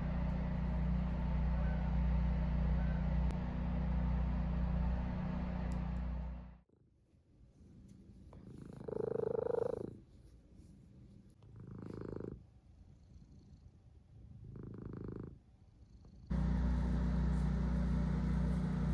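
A steady low hum that cuts off suddenly; in the quiet that follows, a cat meows three times, the first call rising and falling in pitch. The steady hum then starts again abruptly.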